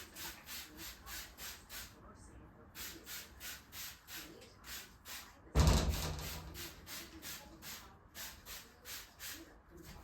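Rhythmic scrubbing of a bathtub surface, about four quick strokes a second with a brief pause early on, and one loud thump about halfway through.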